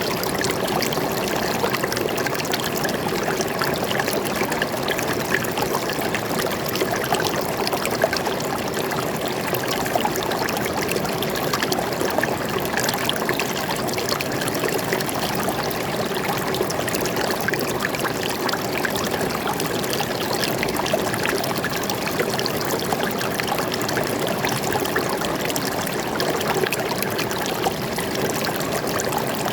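A stream of water flowing and trickling steadily, with many small splashes and no change over time.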